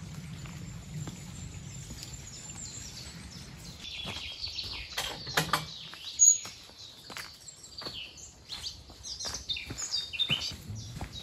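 Songbirds chirping and singing, starting about four seconds in, among a scatter of sharp clicks and knocks. A faint low hum comes before the birds.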